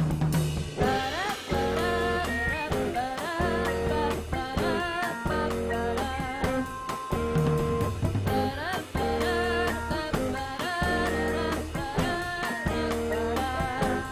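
Electric guitar playing bending, sliding lead lines over a steady drum kit and bass, a blues-rock instrumental passage from a live band.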